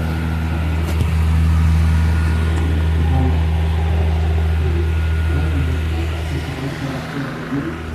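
Mallory Delfos TS+ tower fan running at maximum speed: a steady low hum with the rush of its air, plus a faint steady higher whine.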